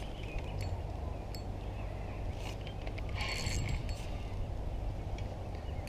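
Spinning fishing reel being worked while fighting a hooked carp: short mechanical rattling bursts of the reel, the loudest about two and a half and three to four seconds in, over a steady low rumble.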